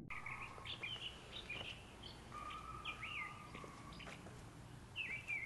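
Songbirds chirping outdoors: many short, curving high notes repeated throughout, with a held whistled note a little past two seconds in, over faint background noise.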